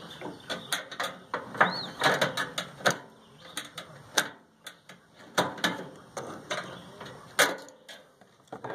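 Irregular clicks, knocks and clatter of metal and plastic parts being handled and pulled apart while an old microwave is dismantled.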